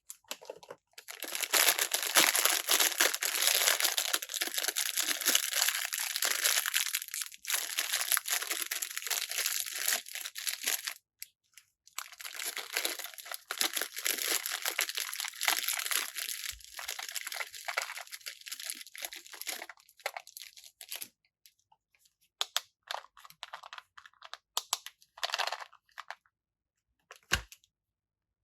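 Packaging crinkling and tearing as a toy set is unboxed: two long stretches of dense crackling, then scattered small clicks and rustles of pieces being handled, with one soft thump near the end.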